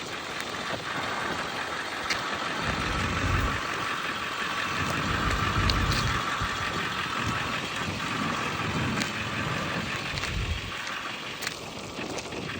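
A 7.3-litre Power Stroke V8 turbo diesel in a Ford F550 dump truck idling steadily, with wind buffeting the microphone now and then.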